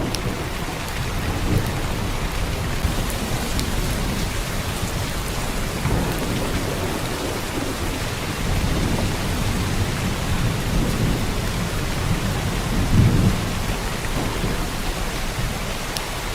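Heavy rain pouring steadily, with low rolling rumbles of thunder underneath that swell and fade. The strongest rumble comes about three-quarters of the way through.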